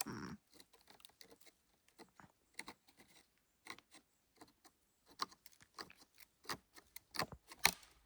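Dry, weathered tree roots crackling and snapping as they are pulled and bent by hand in an attempt to break a piece off. Irregular sharp cracks come two or three a second, the loudest near the end.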